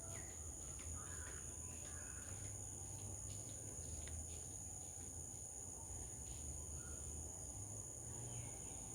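Insects shrilling steadily in two even high-pitched tones, over a low rumble, with a few faint short chirps.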